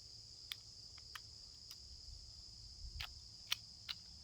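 Steady high-pitched chorus of crickets, with about half a dozen faint clicks and taps scattered through it.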